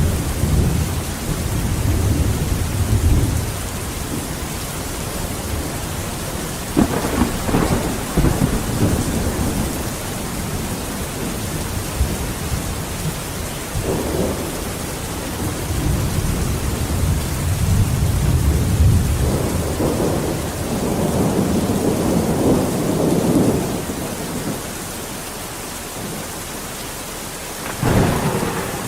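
Steady heavy rain with repeated rolls of thunder rumbling through it, two sharp cracks about seven seconds in and another just before the end.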